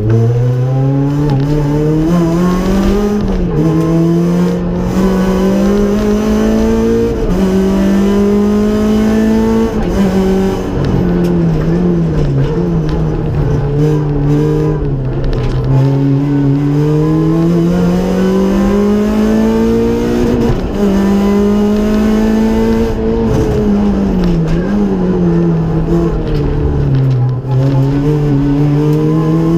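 Rally car's engine heard from inside the caged cockpit, driven hard: its pitch climbs and falls over and over as the car accelerates, shifts and slows through the course.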